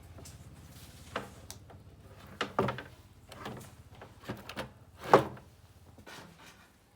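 A series of separate knocks and clunks, as of hard objects being set down or handled, the loudest about five seconds in.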